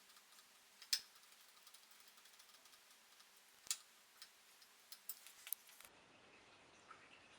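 Faint background hiss with a few scattered sharp clicks: one about a second in, one a little before four seconds, and a quick cluster of small clicks around five seconds. Near six seconds the background tone changes abruptly.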